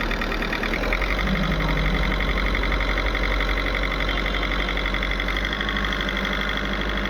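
Volkswagen Polo diesel engine running steadily on light throttle, with a slight knock that is still there after injector coding. The knock points to the injectors, which still need adaptation.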